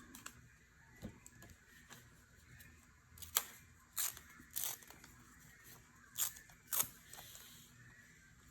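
Paper scraps being handled and sorted: about half a dozen short, sharp crinkles and clicks, the loudest about three and a half seconds in.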